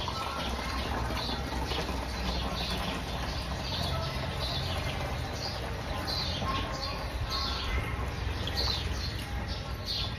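Small birds chirping rapidly and repeatedly, short high falling notes several a second, over a steady low rumble.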